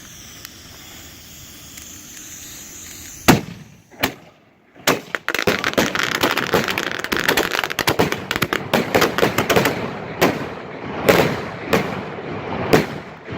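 A homemade 15-shot rack of tubes loaded with firecrackers and firecracker strips going off. After a steady hiss come three single sharp bangs, about three, four and five seconds in. Then a dense run of rapid firecracker pops with louder bangs scattered through it lasts about eight seconds.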